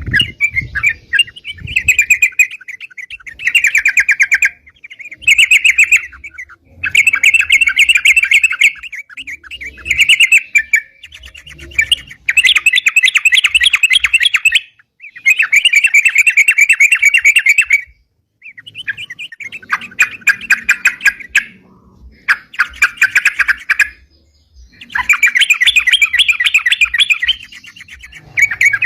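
Yellow-vented bulbul (crucukan) singing loudly in repeated phrases of rapid chattering notes, each phrase one to two seconds long with short pauses between.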